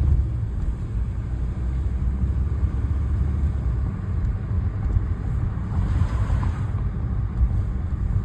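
Steady low rumble, with a brief swell of higher-pitched noise about six seconds in.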